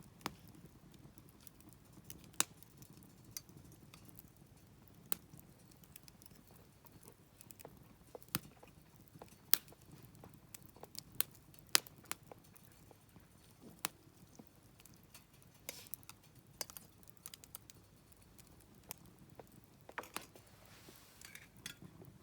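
Wood campfire crackling: irregular sharp pops and snaps from burning wood over a low, steady background.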